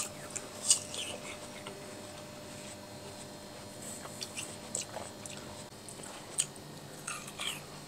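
Quiet chewing and mouth sounds of people eating juicy watermelon, with scattered short clicks of forks against plates.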